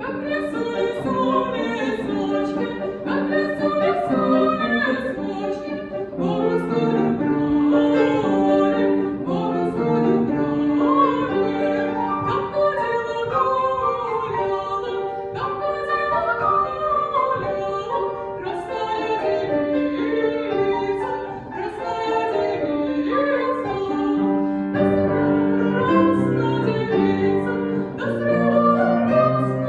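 Music: a song sung in a classical or choral style, held notes moving from one pitch to the next, with lower notes joining about 25 seconds in.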